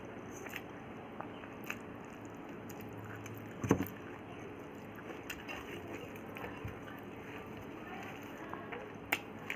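A person chewing and biting food close to the microphone: small scattered clicks of mouth and food, with a louder bite about three and a half seconds in and another near the end.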